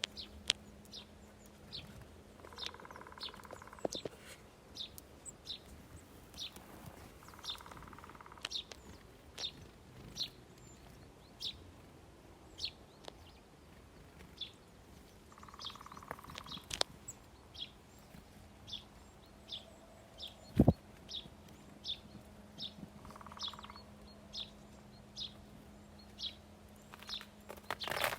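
Small songbirds chirping at a bird feeder: a steady run of short, high chirps, one or two a second, with a lower, hoarse call of about a second heard four times. One sharp knock about twenty seconds in.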